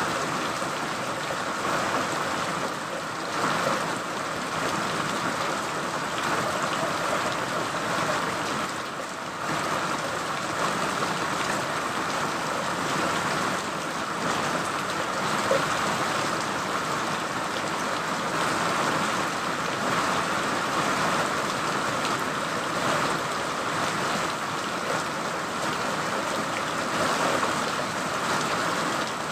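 Steady rain falling, an even hiss that swells and eases slightly now and then.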